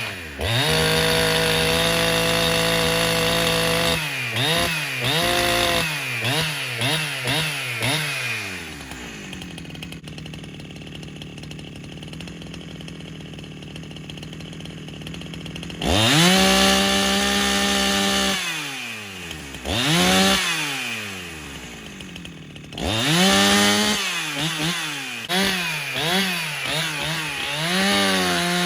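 Husqvarna 372XP two-stroke chainsaw engine held at full throttle, then blipped up and down several times before settling to idle about nine seconds in. It is revved hard again around sixteen seconds, followed by a run of quick throttle blips.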